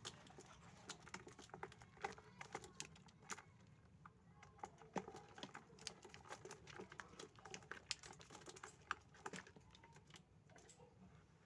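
Javan mynas moving about in their cage, making many faint, quick, irregular clicks and taps of beaks and feet.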